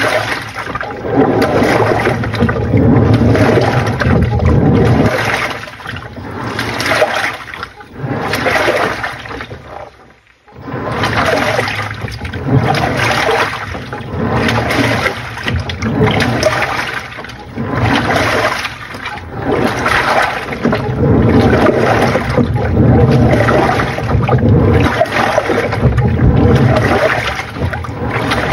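Panasonic NA-FA80H8 top-loading washing machine in its wash stage: water and laundry sloshing and churning in the tub in repeated swells as the pulsator agitates back and forth, with a brief pause about ten seconds in.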